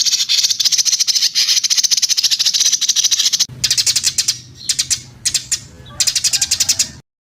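Songbird singing a long, rapid, rattling trill, followed by several shorter trilled phrases. The song cuts off abruptly near the end.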